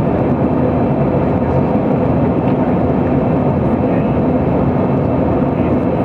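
Airliner cabin noise in flight: a steady drone of engines and rushing air, with a constant low hum running through it.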